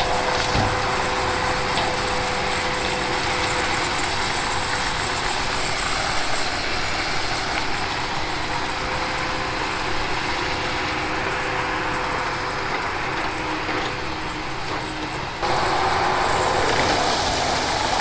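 Heavy diesel logging equipment running steadily, a continuous engine and hydraulic drone with a high hiss over it. The sound changes abruptly about fifteen seconds in.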